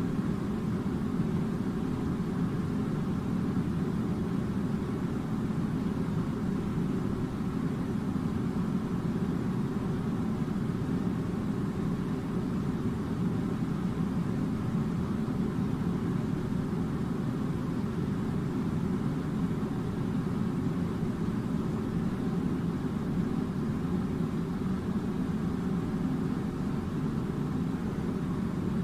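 Air conditioner running with a steady, low drone that does not change.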